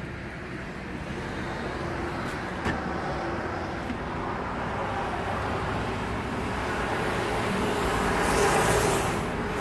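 Road traffic noise with a vehicle running, building steadily and loudest about eight and a half seconds in as it passes close, then easing. A short click about two and a half seconds in.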